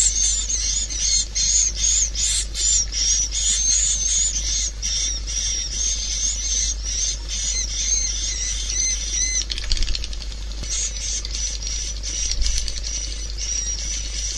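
Swiftlet call track: rapid, densely repeated high-pitched chirps of edible-nest swiftlets, over a steady low hum, with a brief break in the pattern about ten seconds in. This is the kind of sound played to lure swiftlets into a swiftlet house.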